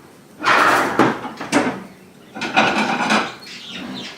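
Spatula scraping and knocking against a frying pan while lifting a fried egg out to plate it: two bursts of scraping, with a couple of sharp clinks between them.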